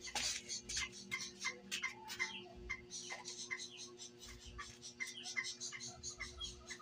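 Small birds chirping: many short, high chirps and ticks, several a second and unevenly spaced, over a steady low hum.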